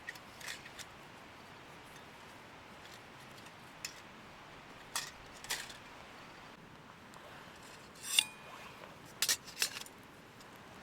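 Metal camping cookware being handled: a scattering of sharp clicks and clinks, the loudest about eight seconds in with a short metallic ring.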